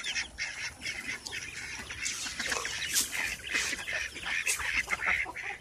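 A flock of backyard poultry calling together: many short, overlapping high-pitched calls and chatter.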